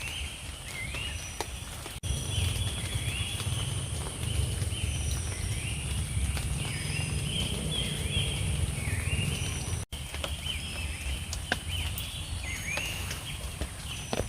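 Night forest ambience: a steady high-pitched insect drone with many repeated short chirping calls from insects or frogs, over a low rumble and scattered clicks.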